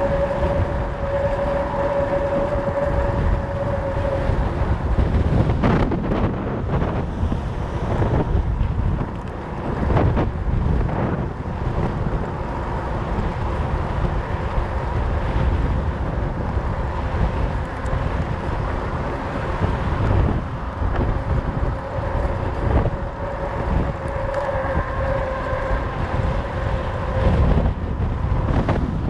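Wind rushing over the microphone and low tyre rumble from a fat bike riding on 4.4-inch Schwalbe Jumbo Jim tyres. A steady hum sounds for the first few seconds and again near the end, and there are a few knocks along the way.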